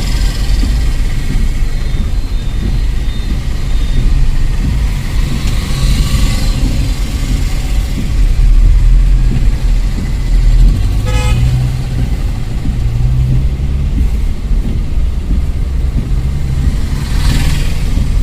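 Steady low road rumble of a car being driven, with a short horn toot about eleven seconds in and two hissing swells, one about six seconds in and one near the end.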